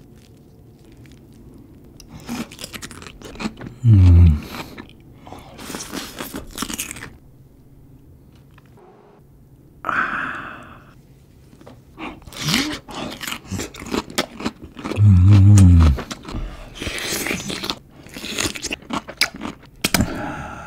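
Crisp, crunchy biting and chewing of a whole raw cucumber, close to the microphone, in two long stretches. Twice, about 4 s and 15 s in, a loud deep grunt is the loudest sound.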